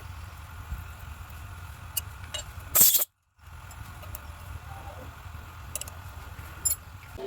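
A few sharp metal clinks and knocks over a steady low hum. The loudest comes about three seconds in and is followed by a brief cut to silence.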